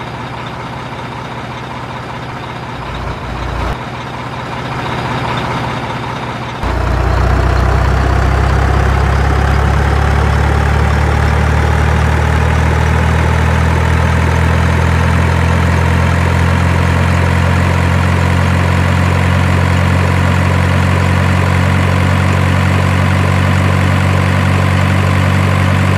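Engine-like motor running steadily. About six and a half seconds in it steps up sharply in loudness, with a deep hum and a whine that slowly rises in pitch.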